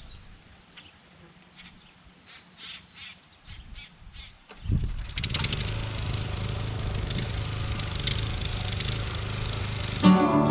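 Crows cawing several times. About four and a half seconds in, a garden tiller starts up and runs steadily.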